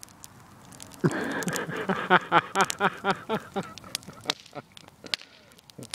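Wood fire in a fire pit crackling with sharp pops. About a second in, a loud run of quick pulsed vocal sounds, about five a second, lasts two and a half seconds and fades out.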